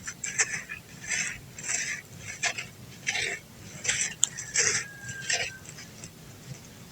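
Dry clumps of brown dirt crumbling with a crunch: about nine short gritty crunches, roughly two-thirds of a second apart, stopping about five and a half seconds in.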